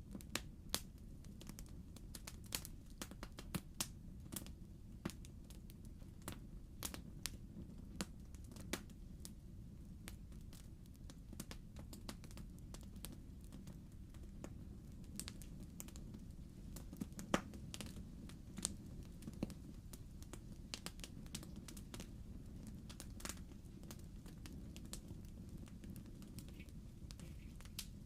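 Wood fire burning in a fireplace: a steady low rumble of the flames with irregular sharp crackles and pops from the logs, one louder pop about seventeen seconds in.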